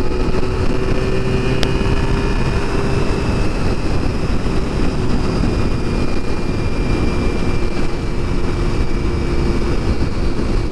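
Honda RVF400 V4 motorcycle engine running at steady revs at road speed, with heavy wind rumble on a helmet-mounted microphone.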